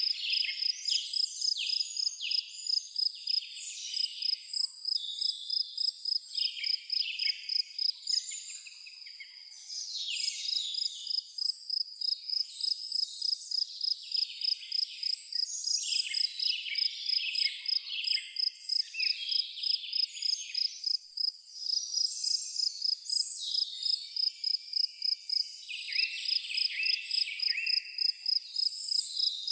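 Forest ambience: a cricket chirping in a steady, even, high-pitched pulse, with several birds singing overlapping songs over it that briefly thin out about a third of the way in.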